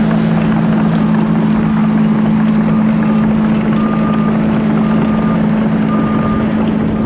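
Kobelco 210 excavator's diesel engine running steadily at raised revs. From about three seconds in, a high electronic beep repeats about once a second, with wind on the microphone.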